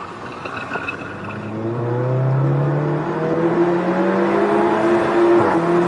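SEAT Cupra's turbocharged four-cylinder engine heard from inside the cabin, accelerating hard: the revs climb steadily for about four seconds, break briefly near the end at what looks like an upshift, then climb again.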